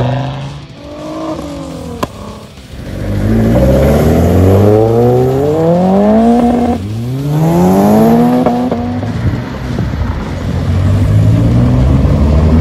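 Modified hatchbacks accelerating hard away one after another. An engine revs up in a long rising sweep, drops sharply about seven seconds in as it shifts gear, and climbs again; another car's engine runs near the end.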